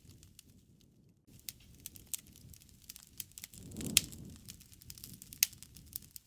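Wood fire crackling with scattered sharp pops, the two loudest about four and five and a half seconds in, and a low rush of flame swelling around the first of them.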